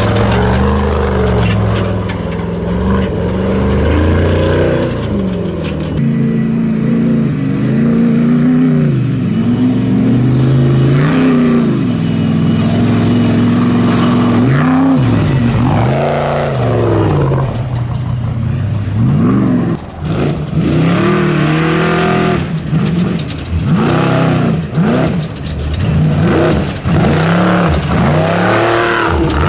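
Trophy Truck race engine revving hard over rough ground, its pitch rising and falling again and again. The throttle swings come quicker from about halfway through.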